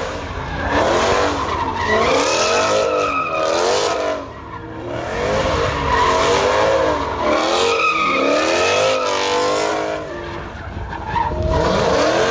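Car tires squealing in long, wavering screeches, with the engine's low rumble underneath. The screech comes in three stretches, easing off briefly about four seconds in and again near ten seconds, which is typical of a car doing burnouts or donuts.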